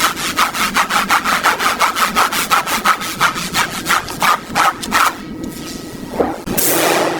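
Rapid back-and-forth scraping strokes, about five a second, stopping about five seconds in; near the end a loud, even rushing noise begins.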